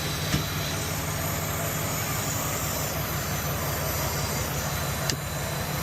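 Vehicle engine idling steadily, with a light click near the start and another about five seconds in.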